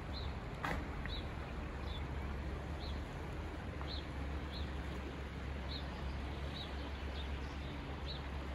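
A small bird repeating a short, high chirp about once a second, over a steady rushing background noise with a low rumble. There is one sharp click about half a second in.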